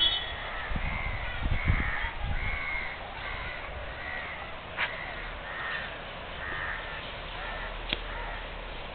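Birds calling outdoors, a run of short repeated calls about two a second, with a few low thumps in the first few seconds and two sharp clicks later on.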